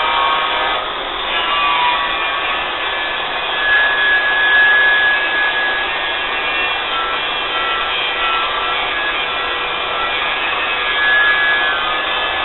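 Grinder grinding the steel of a three-point hitch blade: a continuous loud rasping with high whining tones that shift in pitch as it bears on the metal, swelling a little about four seconds in and again near the end.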